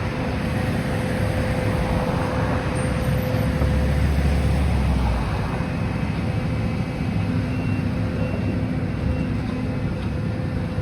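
A steady engine running amid street noise, with a deeper rumble swelling for about a second and a half around four seconds in.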